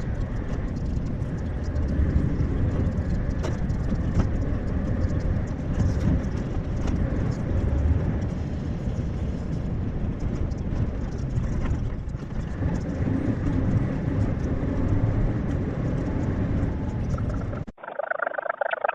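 Lorry on the move: steady engine and road noise. Near the end it briefly turns thin and tinny for about a second, then comes back.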